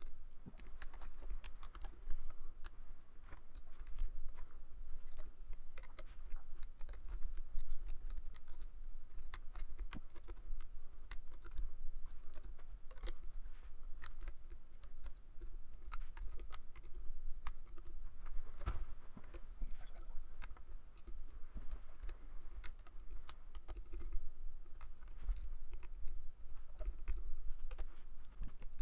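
Rapid, irregular clicking and tapping of a crochet-style hook working rubber bands over the pins of a plastic Rainbow Loom.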